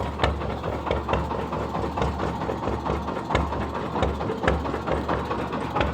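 Truck engine idling steadily, with sharp knocks or clicks about twice a second over the running.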